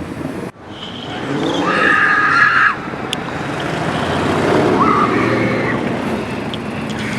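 Car engine revving, rising in pitch and loudness after a sudden break about half a second in and stopping abruptly near three seconds; engine noise carries on, with another short rise near five seconds.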